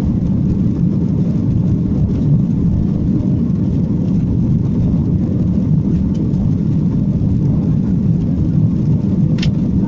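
Boeing 737-800 cabin noise during the climb after takeoff: the CFM56-7B engines and airflow make a steady low rumble. A brief high click sounds near the end.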